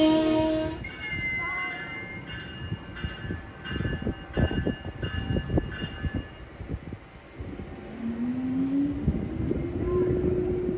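Amtrak train horn chord cutting off about a second in, then the rumble and knocks of passenger cars' wheels on the rails. Near the end a low whine rises and then holds steady, from the electric locomotive's motors.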